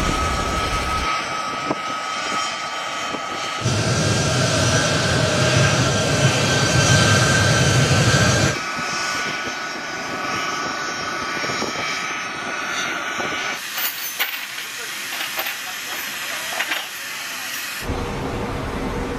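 Jet aircraft engines running with a steady whine over a rush of noise. The sound changes abruptly several times, as one recording is spliced to the next; the fullest, loudest stretch is between about 4 and 8 seconds in.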